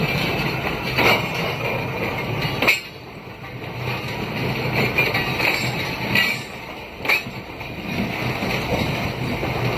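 Pakistan Railways passenger coaches rolling past on the track: a steady rumble with sharp knocks every second or two.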